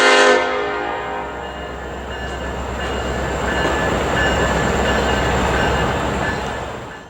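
A locomotive horn blast ending about half a second in, then the steady rumble of a passing train with its diesel engines droning underneath.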